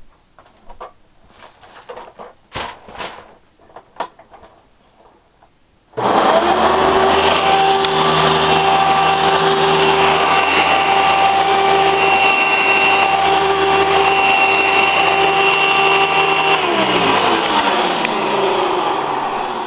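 A few scattered clicks and knocks, then a Hoover Encore Supreme upright vacuum cleaner switches on suddenly and runs steadily with a motor whine. A few seconds before the end it is switched off and the motor winds down, its pitch falling.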